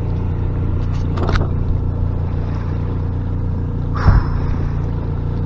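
Sailboat's engine running steadily under way, a constant low drone, motoring in a flat calm. A brief knock sounds about four seconds in.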